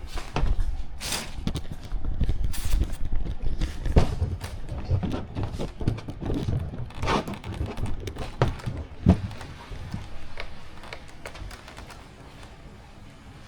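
Handling noise of model-plane parts and tools: irregular knocks, taps and clicks with low bumps, thinning out near the end.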